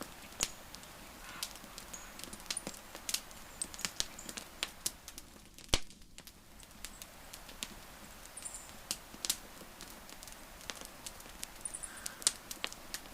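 Wood fire crackling, with irregular snaps and pops over a soft hiss; one sharp pop about six seconds in is the loudest. A few faint high chirps come and go.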